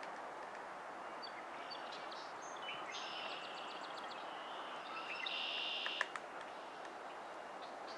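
Birds giving high, chattering calls over a steady background hiss. Two sharp taps come about six seconds in, the first the loudest sound.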